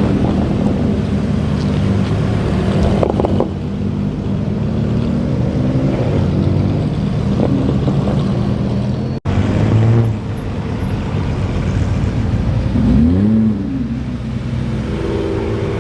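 Car engines running, with one engine revving up and back down about thirteen seconds in. The sound drops out abruptly for an instant about nine seconds in, as at a cut between clips.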